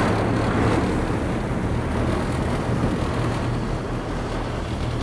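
Tour boat's engine running with a steady low hum, under a broad rush of wind on the microphone.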